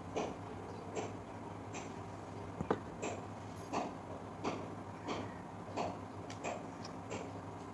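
Short sharp clicks repeating at a fairly even pace, about one every three-quarters of a second, over a faint steady hum.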